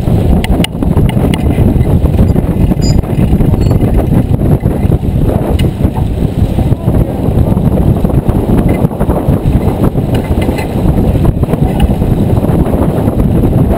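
Loud, fluctuating low rumble of wind buffeting the microphone aboard a J24 sailboat under way, with a few faint clicks.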